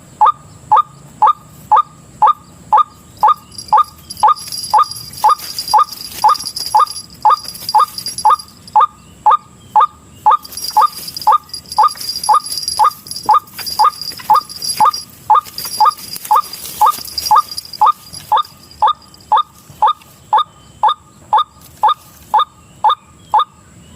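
White-breasted waterhen (ruak-ruak) call played as a trapping lure: one short, loud call repeated at a very even pace, a little under two a second, at the same loudness each time.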